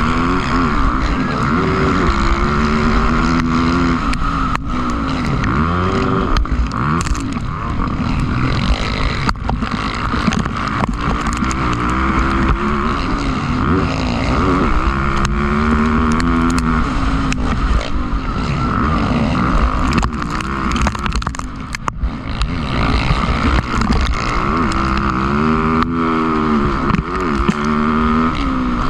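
Motocross bikes revving hard and passing on the track, their engine pitch rising and falling again and again, over a steady hiss.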